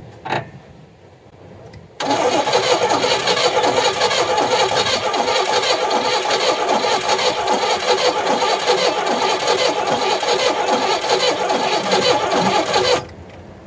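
An Oldsmobile Cutlass Supreme engine, dormant for 30 years, cranked by its starter for about eleven seconds without catching, after a short click; the cranking cuts off abruptly near the end. The owner takes it for a compression problem, and probably an ignition problem as well.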